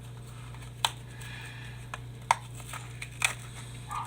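A tool digging and tapping at a cardboard firework mortar shell: three sharp clicks and a few lighter ticks, with crunching of the shell's paper casing and its packed contents. A steady low hum runs underneath.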